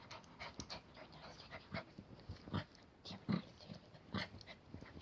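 A dog close by making a string of short, irregular noises, about three a second.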